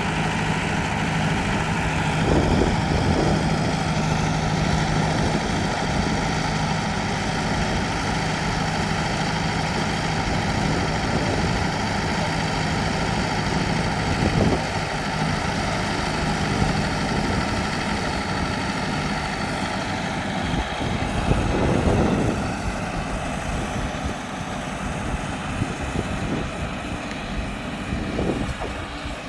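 Tractor engine running steadily while powering a B70 round baler at work, with a few brief louder surges of clatter.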